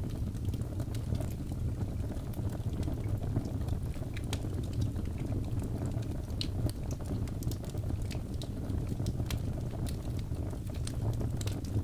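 Wood logs burning in a fireplace: a steady low rumble of flame with frequent sharp, irregular crackles and pops from the burning wood.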